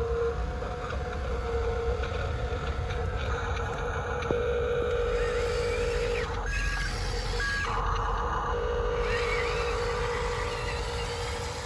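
Small electric motors of radio-controlled construction models whining steadily, the tone dropping out and coming back a few times as the controls are worked.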